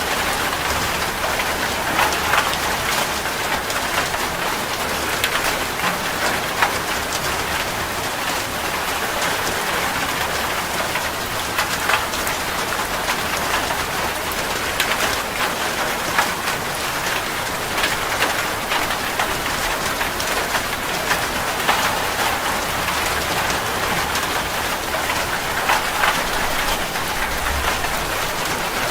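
Steady rainfall, a dense even hiss of rain with many individual drops pattering on a surface.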